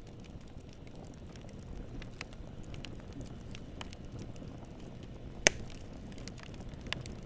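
Wood fire burning in a fireplace, crackling steadily over a low rumble of the flames, with scattered sharp pops and one much louder pop a little past the middle.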